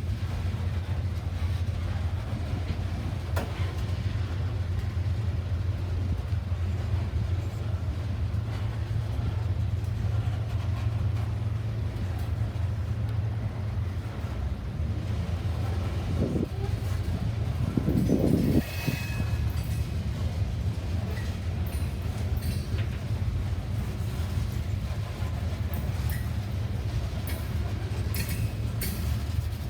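A train rolling past: a steady low rumble, swelling louder about two-thirds of the way through, with a run of sharp clicks near the end.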